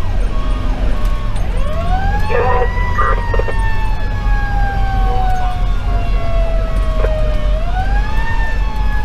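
A fire engine's mechanical siren winds up in pitch, coasts slowly down for several seconds, then winds up again near the end. Beneath it runs the steady rumble of the truck's Detroit Series 60 diesel engine and road noise.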